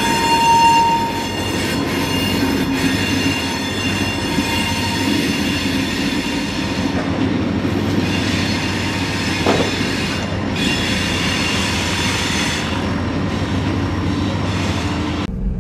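Freight train rolling slowly past, its wheels squealing steadily with a high metallic screech over a low rumble of cars and couplings. The sound cuts off abruptly just before the end.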